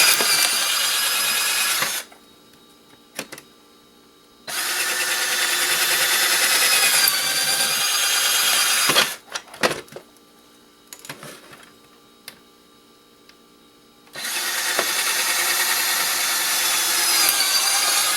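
Power drill running in three bursts of a few seconds each, boring through the plastic caps that cover deep-set screws in a plastic housing. A few clicks and knocks fall in the pauses between bursts.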